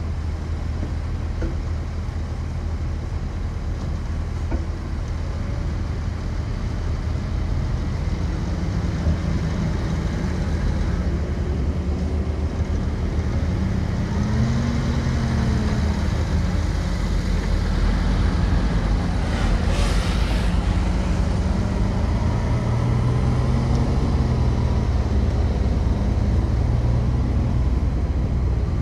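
Diesel engine of heavy earthmoving machinery running under load, its pitch rising and falling as it works, with a brief high hiss about twenty seconds in.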